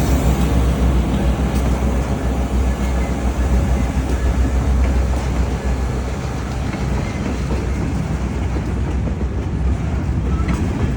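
Excursion train rolling along on its track, a steady low rumble of wheels on rails heard from aboard, easing slightly about halfway through.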